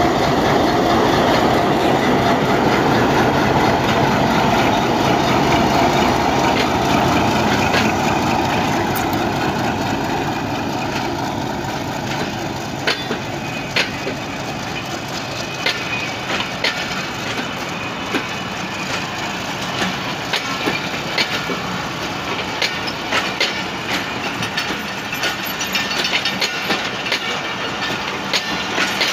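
Pakistan Railways PHA-20 diesel locomotive running loud and close as it pulls away, its engine sound easing after about ten seconds. The passenger coaches then roll past with irregular sharp clicks of the wheels over rail joints.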